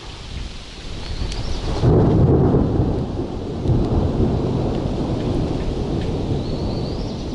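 Rolling thunder: a low rumble that builds about a second in, peaks about two seconds in and keeps rumbling on, over the steady hiss of heavy rain.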